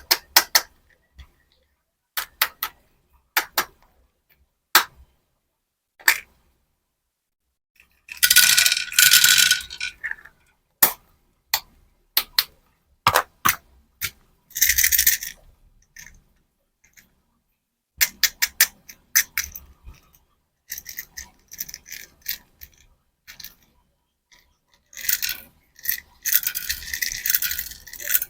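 Candy packaging and small hard candies being handled: scattered sharp clicks and taps, with longer stretches of crinkling and rattling about a third of the way in, around the middle, and again near the end.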